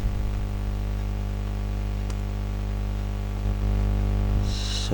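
Steady electrical mains hum, with a few faint clicks and a low rumble from about three and a half seconds in.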